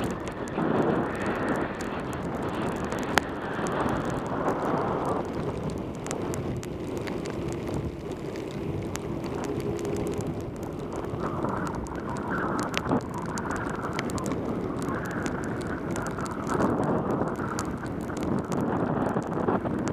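Wind and rain noise on a helmet-mounted action camera during a bicycle descent in pouring rain: a steady rush that swells and eases, with scattered sharp ticks.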